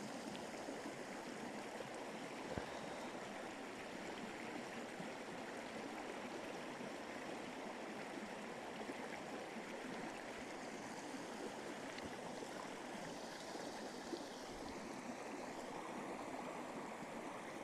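Steady rush of flowing water, like a small stream, running evenly throughout, with a faint tick or two.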